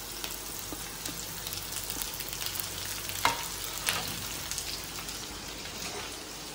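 Sliced onions, garlic, almonds, whole spices and fresh chillies sizzling steadily in oil in a nonstick frying pan as they are stirred with a slotted spoon. Two sharp clicks come a little past halfway.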